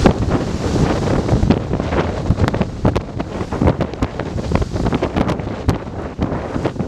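Strong wind of about 14 m/s buffeting the microphone aboard a sailing yacht under way: a loud, low rumbling rush broken by frequent sharp pops as gusts hit. Faint sea noise may lie underneath.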